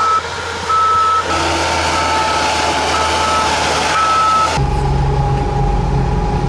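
Snowcat's back-up alarm beeping repeatedly over engine and track noise as the machine reverses; about four and a half seconds in it gives way abruptly to the steady low drone of the engine.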